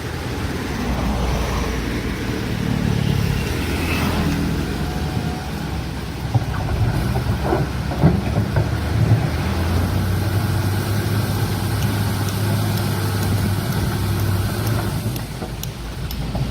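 Heavy excavator's diesel engine running under load, with a few sharp clanks partway through.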